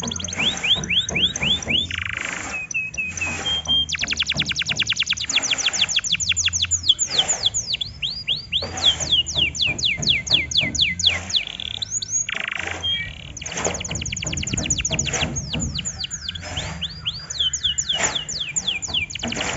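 Canary singing a long, varied song: rapid trills and series of quick, high, downward-sweeping notes in phrases of a few seconds each, broken by short pauses.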